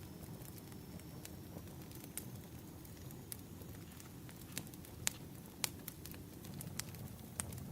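Wood fire crackling: irregular sharp pops and snaps over a low, steady rumble of burning logs, with the loudest pops about five seconds in.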